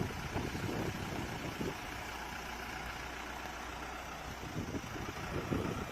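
Vehicle engine idling with a steady low hum, with uneven rumbling near the start and again near the end.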